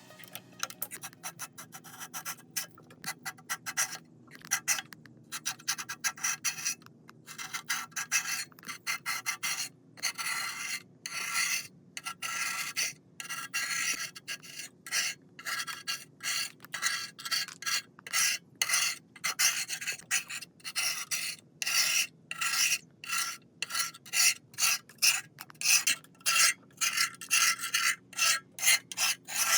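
Rough hand tool rasping back and forth on rusted metal in repeated strokes, scrubbing off rust. The strokes are irregular at first and settle to about two a second.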